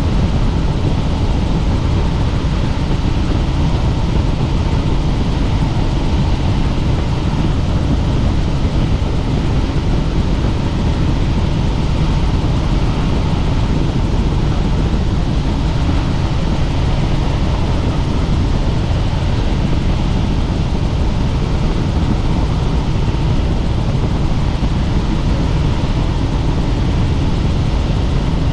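Helicopter in steady flight: a constant, loud rotor and engine noise, heaviest at the deep end, with a faint steady whine above it and no change throughout.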